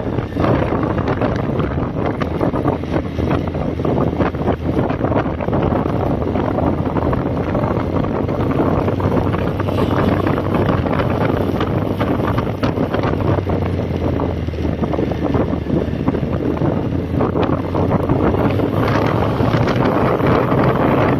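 2005 Honda CB1300's inline-four engine running steadily at riding speed, under heavy wind rush buffeting the microphone.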